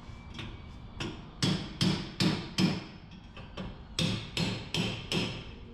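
Hammer blows while 3.42 gears are installed in a truck's rear differential: two runs of about four or five sharp strikes, a little over two a second, with a short pause about three seconds in.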